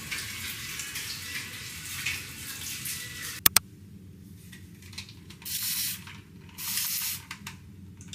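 Water running from a tap as a steady hiss, stopping about three and a half seconds in with two sharp clicks, followed by a few short bursts of running or spraying water.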